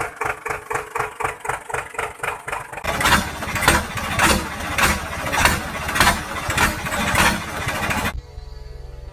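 Engine being cranked with a quick, even chugging, catching about three seconds in into a louder, rougher running with slow pulses. It cuts off abruptly near the end, leaving a quieter steady hum.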